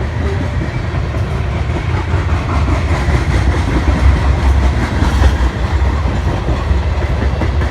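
A train rolling past close by: a heavy, steady rumble with the clatter of wheels over the rails.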